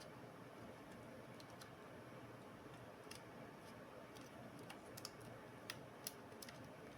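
Near silence: a steady low hiss with a handful of faint, short clicks and ticks scattered through the second half.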